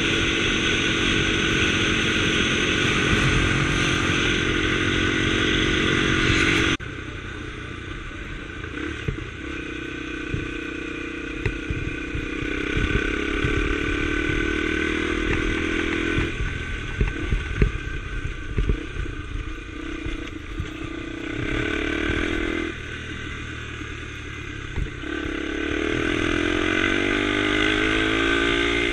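Honda Tornado scrambler motorcycle engine running under way. Its pitch rises and falls with the throttle, with a clear rise near the end. The sound drops abruptly about seven seconds in, and there are scattered knocks and clatter in the middle.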